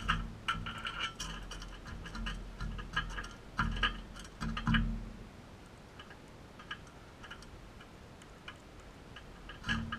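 Crimson rosellas making quick short clicks and chips, bunched in the first five seconds and sparse after. A few dull low thumps come in among them.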